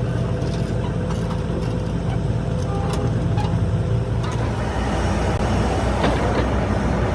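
A machine's motor running steadily, with a few light metallic clicks over it. Its running note changes about four seconds in.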